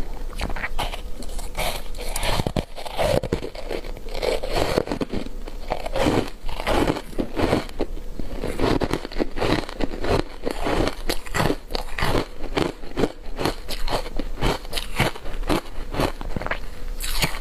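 Frozen matcha-powder ice being bitten and chewed, a dense run of crisp crunches, a few each second.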